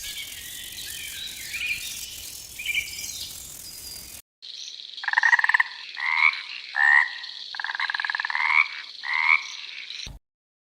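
Frog croaking: about six loud, pulsed croaks in quick succession over a steady high trill. Before them come faint high chirps.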